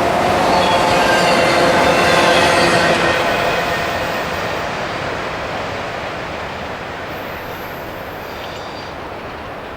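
Freight train rolling by on the rails, with a few steady squealing tones from the wheels in the first three seconds, then fading steadily as it moves away.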